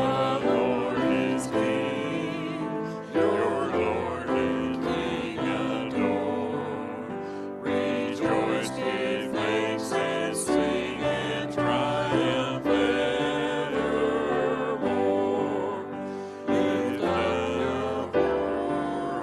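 Worship music: several voices singing a hymn-like song with keyboard accompaniment.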